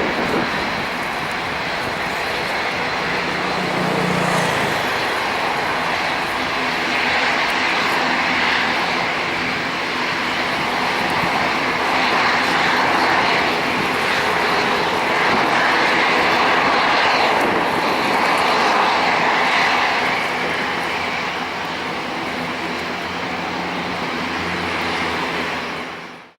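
Airbus A319-112 jet airliner's CFM56 turbofan engines running with a steady, loud rushing noise that swells gently. It cuts off suddenly near the end.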